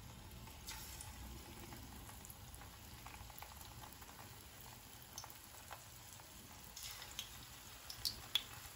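Batter-coated chicken pieces shallow-frying in hot oil: a faint, steady sizzle with scattered small pops and crackles as pieces are added one at a time.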